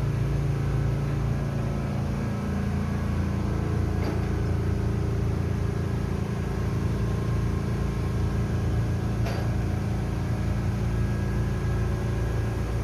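A ship's diesel engine running steadily, with a constant low drone. Two faint clicks come through, about four and nine seconds in.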